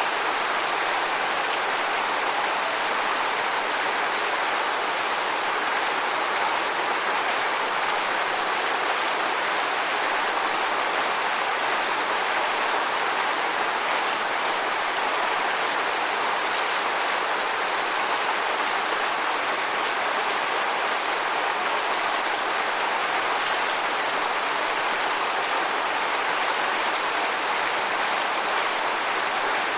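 Waterfall: falling water splashing steadily, an even rushing hiss with little low rumble.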